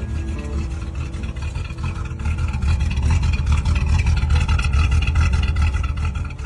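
Car engine running with a strong low rumble, getting louder about two and a half seconds in.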